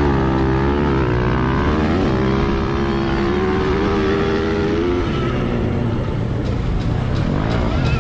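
Dirt bike engine revving, its pitch rising and falling.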